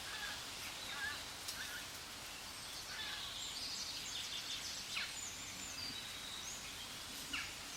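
Short, high bird chirps and calls scattered over a steady background hiss, with two quick falling calls about five and seven seconds in.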